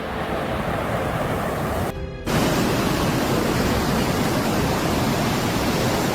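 Steady rushing noise that cuts out briefly about two seconds in, then returns slightly louder.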